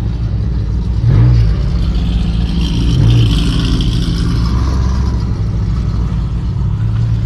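Car engine and road noise heard from inside the cabin as the car rolls slowly: a steady low drone that swells briefly twice, about a second in and again about three seconds in.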